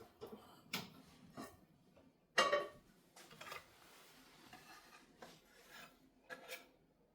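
Light handling noises of household objects: scattered soft knocks and rubbing, with one louder clatter that rings briefly about two and a half seconds in.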